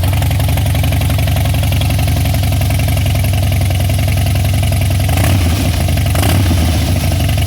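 Harley-Davidson V-twin motorcycle engine idling steadily just after being started.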